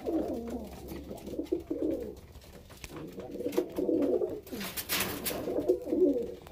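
Domestic pigeons cooing, several overlapping low calls in a row from birds courting after being paired for breeding season. A brief rustle or flutter of wings about five seconds in.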